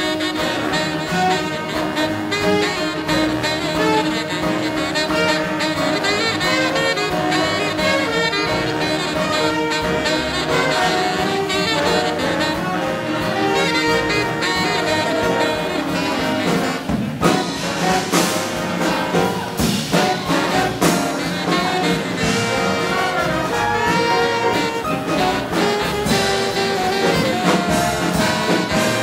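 A big band with trumpets, trombones and saxophones plays swing jazz live. Sharp percussive strikes cut through the music from about halfway in.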